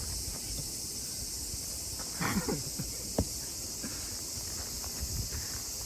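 Steady high chorus of night insects, with a few small knocks and rustles near the middle, one of them a sharp click.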